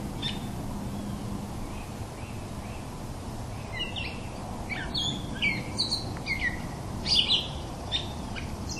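Small birds chirping in short, quick falling notes over a steady background hiss, the chirps coming thick and fast from about halfway through.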